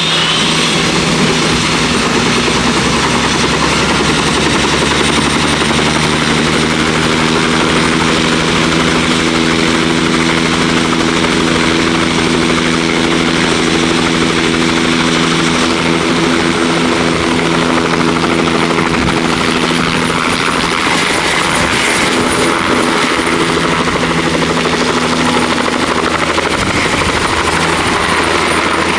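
Helicopter turbine engine and rotor running steadily close by: a high turbine whine over a low, even rotor hum.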